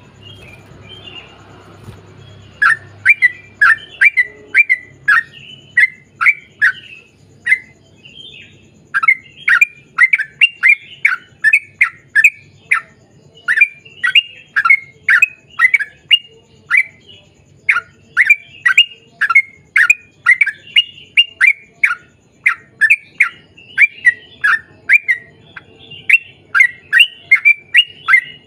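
Yellow-vented bulbul (trucukan) singing a long rapid run of short, sharp, down-slurred chirps, about two a second. It starts a couple of seconds in and pauses briefly now and then.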